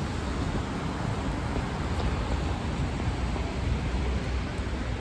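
Steady heavy rain on a city street, with a low rumble of traffic underneath.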